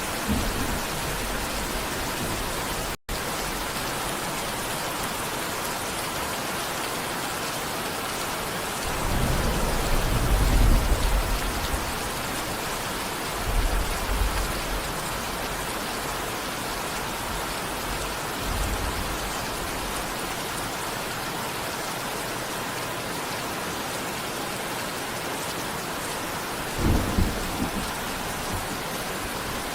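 Steady heavy rain with rolls of thunder: a long low rumble about nine seconds in, shorter ones around fourteen and eighteen seconds, and another near the end. The rain cuts out for a split second about three seconds in.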